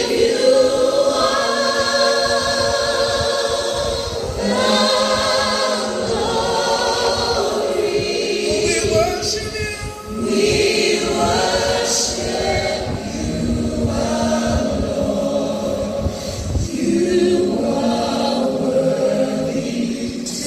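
Gospel music: a choir singing.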